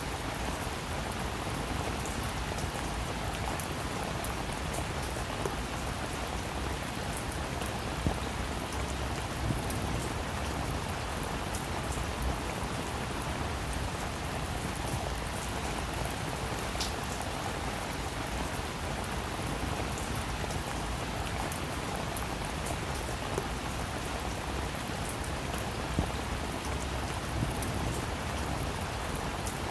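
Steady rainfall, with individual drops ticking sharply now and then over the even hiss of the rain.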